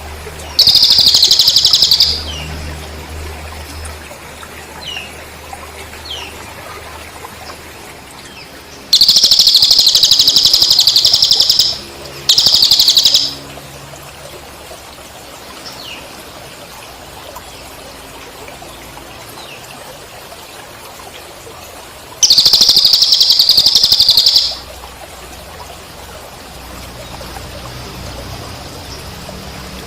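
Training recording of cililin bird song mixed with cricket chirping. There are four loud bursts of rapid, buzzy pulsed trilling, the first right at the start, two close together about nine to thirteen seconds in, and one about twenty-two seconds in. Between the bursts come faint short falling chirps.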